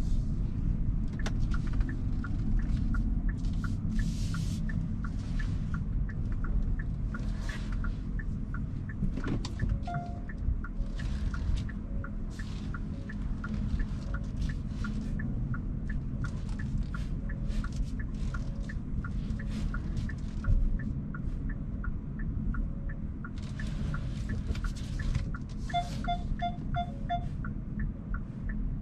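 Cabin road and tyre rumble in a Hyundai Kona Hybrid, with the turn-signal indicator ticking steadily about two times a second. Passing traffic swells in and out. A single short chime sounds about ten seconds in, and a run of five quick beeps sounds near the end.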